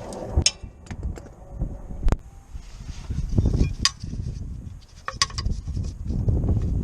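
Scattered clicks and knocks over a low rumbling noise, with one sharper knock about two seconds in.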